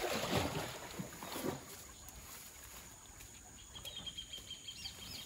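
Faint sloshing of a shallow stream around wading cattle, then, from about four seconds in, a bird calling with a quick series of repeated looping high notes.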